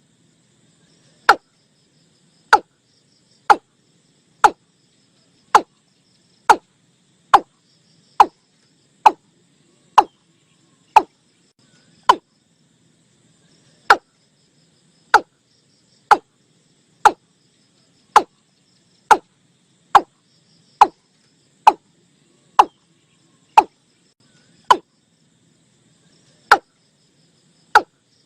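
Watercock calling in a lure recording: a long run of short, sharp notes about one a second, each dropping quickly in pitch, with one longer gap about halfway through. A faint high chirring runs underneath.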